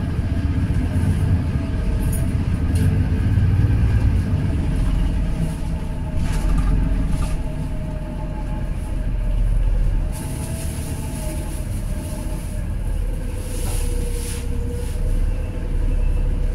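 Daewoo low-floor city bus running: a steady low engine drone with a whine that slides lower in pitch in the second half. Short hisses of air come about six seconds in and again near the end.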